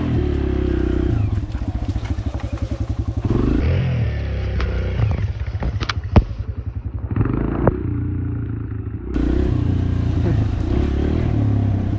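Dirt bike engine running and revving during a race, its pitch rising and falling as the throttle is worked. There are two sharp knocks, about six seconds in and again near eight seconds.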